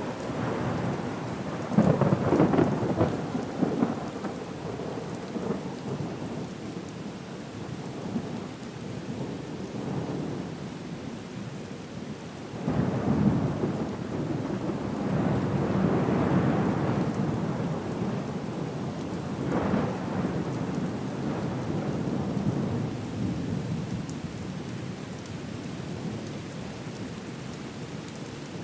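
Storm ambience: steady rain with rolling rumbles of thunder, swelling loudest about two seconds in and again through the middle of the stretch.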